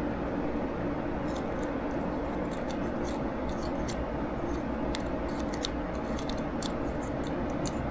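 Small hard parts and tools clicking and tapping as they are handled, many sharp ticks over a steady low hum.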